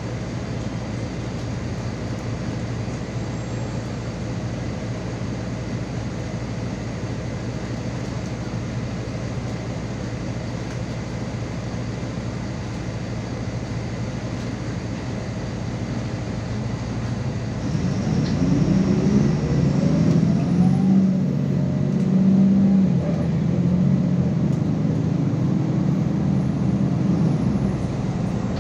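MAZ 216 articulated city bus running, heard from on board: a steady low engine hum, then about eighteen seconds in the engine note climbs in pitch and grows louder as it speeds up.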